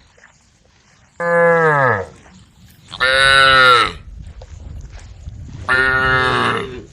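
Cows mooing: three loud calls in a row, each under a second long, the first sliding down in pitch as it ends.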